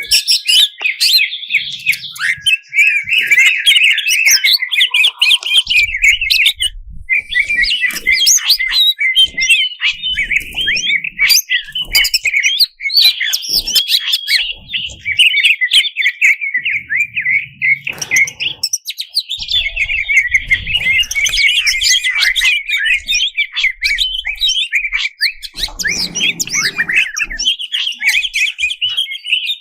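Cucak cungkok, a leafbird, singing a fast, unbroken stream of chirps and trills laced with varied mimicked phrases, with short pauses about seven and nineteen seconds in.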